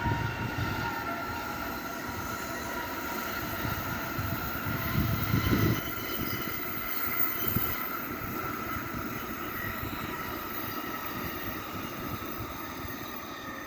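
A train passing close by with a rolling rumble and a steady high-pitched whine over it. The rumble is loudest about five to seven seconds in.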